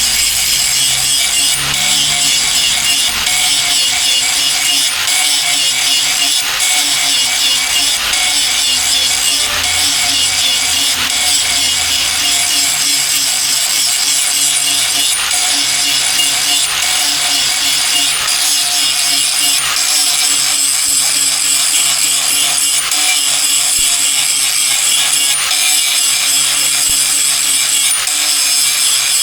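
Steady, loud rasping of a tool working the axe, sawing, filing or grinding, with no clear separate strokes.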